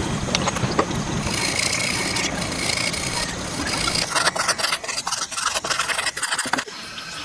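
Wood being worked with a tool: a steady rasping, scraping noise that about four seconds in breaks into irregular scraping strokes, which stop shortly before the end.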